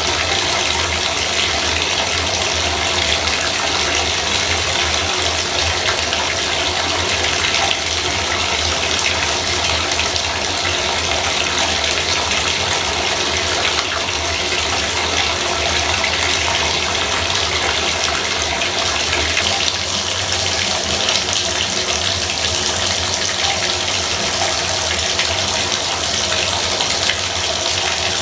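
Bathtub faucet running, a steady, unbroken gush of water.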